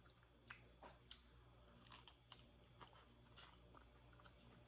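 Faint close-up chewing of crispy fried parrotfish: scattered soft crunches and wet mouth clicks with no speech.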